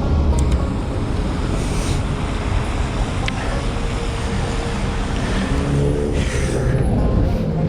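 Wind rumbling on the microphone while cycling along a slushy city road in traffic, with the hiss of tyres through slush and the hum of passing vehicles. A pitched vehicle hum comes in about two-thirds of the way through.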